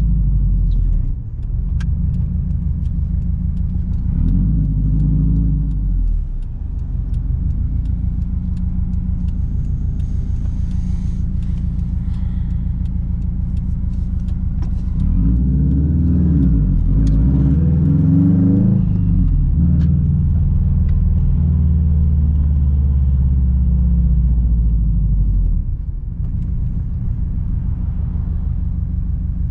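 Straight-piped 2006 Subaru WRX STI turbocharged flat-four running under way, with a deep exhaust note. The revs rise and fall a few times, most markedly about halfway through, and the engine eases off near the end.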